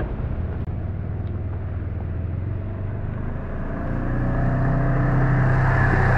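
Dirt bike engine running steadily, getting louder from about four seconds in.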